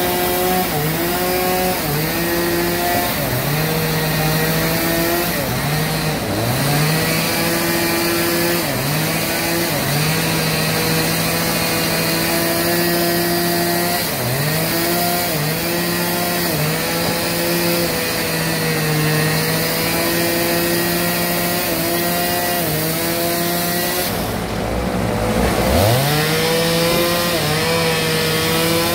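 Bandsaw sawmill cutting a very large log: the mill's motor hums steadily and sags in pitch every second or two under the load of the cut, then recovers, with one deeper sag and recovery near the end.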